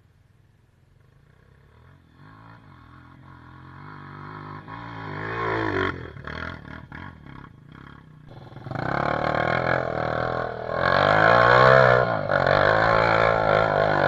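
Dirt bike engine revving, growing louder over the first six seconds, easing off briefly, then running loud at high revs with a wavering pitch for the last five seconds or so.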